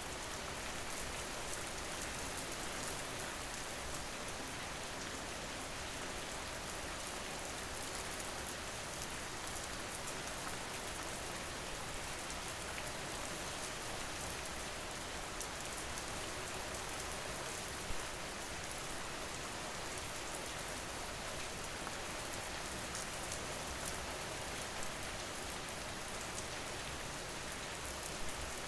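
Steady rain falling: an even hiss with a scatter of fine, sharp drop ticks, and one louder tick about eighteen seconds in.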